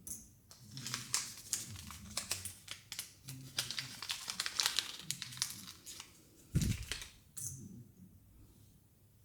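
Thin plastic wrapping crinkling and tearing as small toy packaging is unwrapped by hand, with a single soft thump about six and a half seconds in.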